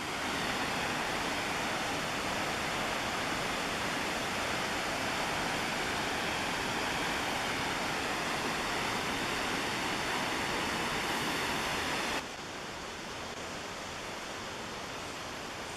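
Steady rush of the McKenzie River's falling, fast water. It drops suddenly to a quieter, duller rush about twelve seconds in.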